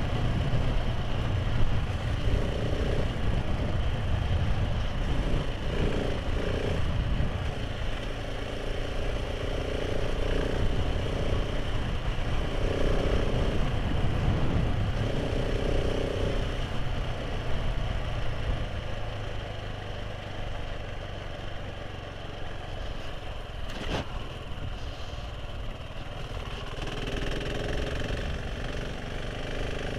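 Motorcycle engine running on the move, with a continuous low rumble; the engine note comes and goes through the first half and is quieter in the second half. There is a single sharp click about 24 seconds in.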